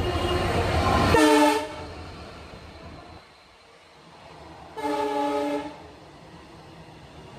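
A passing train's low rumble cuts off about a second in, followed right away by a short blast of a locomotive's multi-tone horn. A second horn blast of under a second comes about five seconds in.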